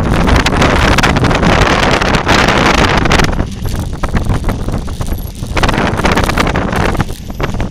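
Heavy wind buffeting on the microphone and a dense clatter of knocks and rattles from riding fast down a rough dirt trail. It eases for a couple of seconds mid-way, then picks up again.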